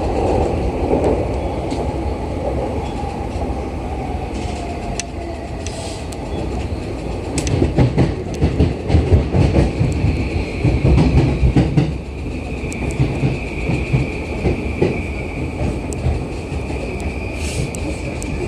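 A JR East E235 series electric train running and slowing, heard from the front car. The traction motor whine falls in pitch over the first few seconds, and the wheels click and rumble over rail joints and points, heaviest around the middle. A steady high squeal sets in partway through and holds.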